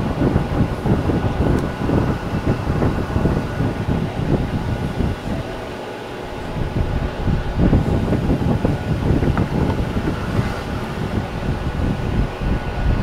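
A motor vehicle running, with wind buffeting the microphone; the rumble eases briefly about six seconds in.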